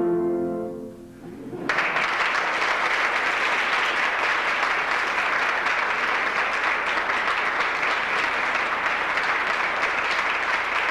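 A held sung note fades out in the first second, then an audience bursts into applause, which goes on steadily.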